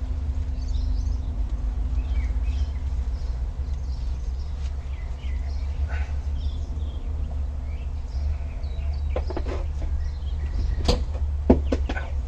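A steady low hum with a faint higher tone runs throughout, under light scattered chirps. Several sharp metal clinks come in the last few seconds as tools and clutch parts are handled.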